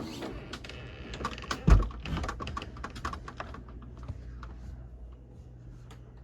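A quick run of light clicks and taps with a heavy low thump about two seconds in; the clicking thins out after about four seconds. A faint steady low hum lies underneath.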